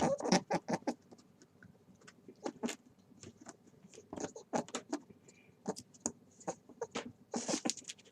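Rabbit making small, irregular clicking and rustling noises, a quick uneven patter of short strokes with a few louder ones near the start and end.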